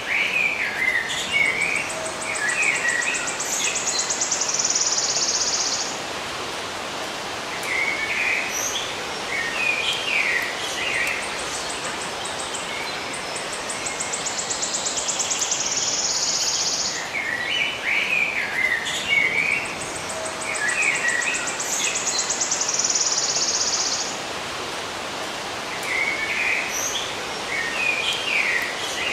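Nature ambience of small birds chirping in short phrases, with an insect's fast buzzing trill higher up, over a steady hiss. The same stretch of sound repeats about every fifteen seconds.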